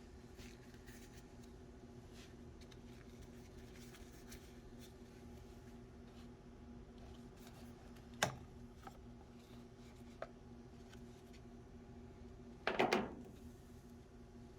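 Faint steady hum with scattered light clicks, one sharp click about eight seconds in, and a short rattling clatter, the loudest sound, near the end.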